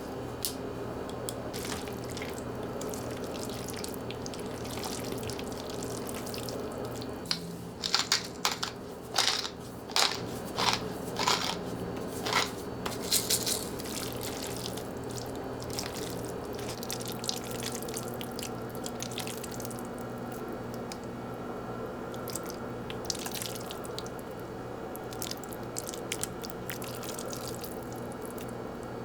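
Someone eating crisp food: a run of about ten sharp crunching bites between about 8 and 13 seconds in, with a few fainter ones later, over a steady low hum.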